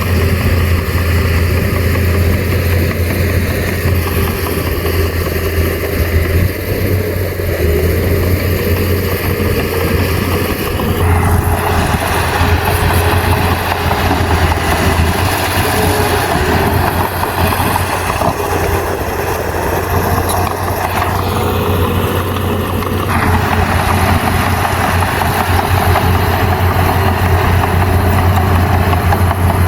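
Komatsu bulldozer's diesel engine running steadily with a deep hum. From about a third of the way in until about three-quarters through, a coarser rushing noise is added on top.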